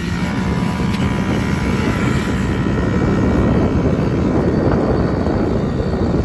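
Small off-road motorbike engine running under throttle, its pitched drone clear for the first couple of seconds, then buried under a loud rush of wind on the microphone as the bike rides.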